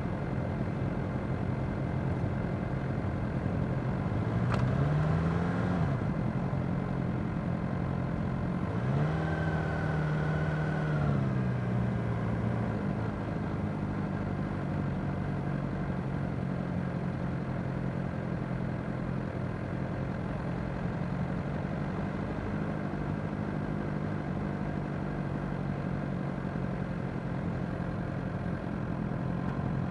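Suzuki GSX-R600's inline-four engine running at low revs in slow-moving traffic, opening up twice briefly, around five and ten seconds in, then settling back to a steady low note.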